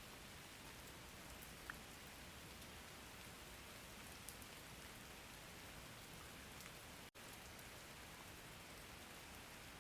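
Faint, steady rain ambience: an even hiss of rainfall with a few small drop ticks. It cuts out for an instant about seven seconds in, then resumes.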